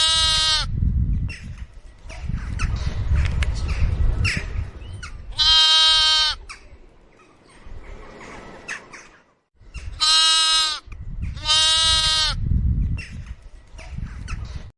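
Goat bleating four times, each call a short nasal "mbee" under a second long: once at the start, once about five seconds in, then twice in quick succession near the end, with rough low noise between the calls.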